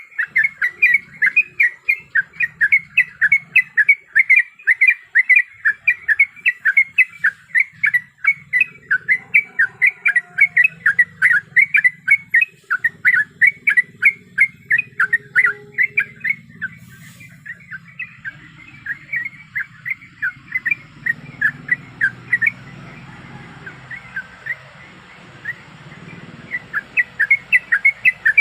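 Yellow-vented bulbul (trucuk) calling in a fast run of short, sharp notes, about four a second. The calls soften and thin out about two-thirds of the way through, then come back strongly near the end.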